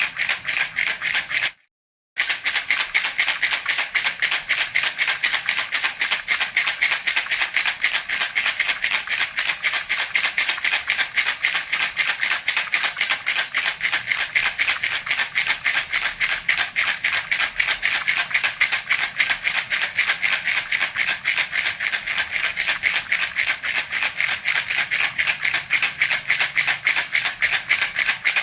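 Baby rattle (jhunjhuna) shaken in a fast, even rhythm, its beads rattling continuously, with a brief break about a second and a half in.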